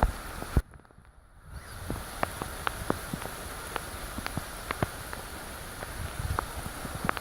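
Rain falling, with single drops ticking at irregular intervals over a steady hiss. The sound dips almost to silence for about a second near the start.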